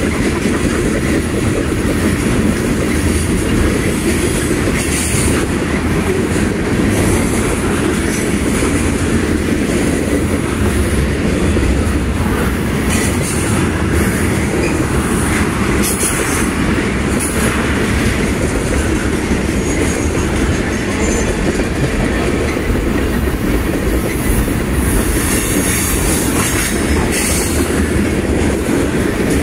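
Freight train of tank cars and covered hopper cars passing close by, a steady loud rumble of steel wheels on rail, with a few brief high squeals from the wheels now and then.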